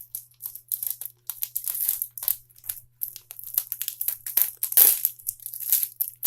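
Crinkly wrapping around a package of posters being handled, rustling in quick irregular crackles, with a louder crackle about three-quarters of the way through.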